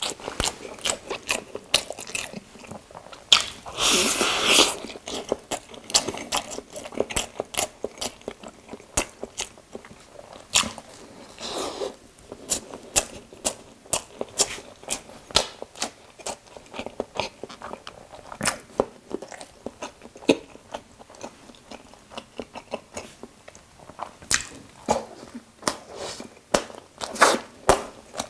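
Close-miked chewing and biting of a toast sandwich: a steady run of wet mouth clicks and smacks, with one louder, longer burst of noise about four seconds in.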